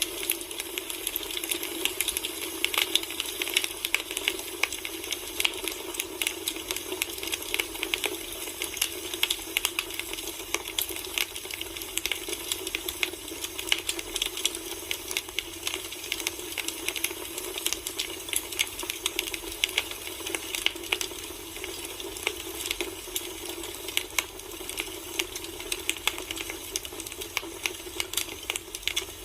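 Firewood burning in a campfire: dense, irregular crackles and pops over a steady hiss.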